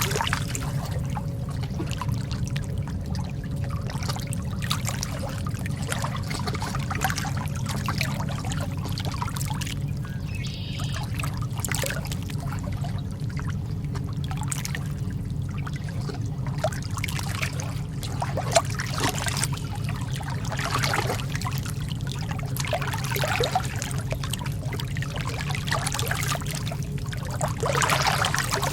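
Calm lake water lapping and trickling: a constant run of small splashes over a steady low rumble.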